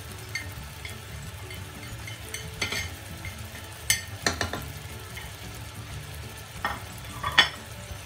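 Chicken, onions and tomatoes frying in oil in a pot, a steady low sizzle, broken by a handful of sharp clicks and knocks, the loudest near the end.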